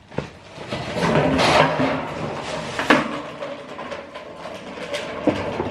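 Handling noise from a removed motorcycle fork leg being worked on at a workbench: scraping and rattling, with a sharp knock about three seconds in and another a little after five seconds.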